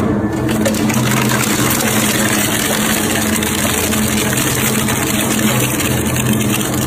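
Motor-driven crushing machine running steadily under power, a constant hum with a dense grinding noise over it.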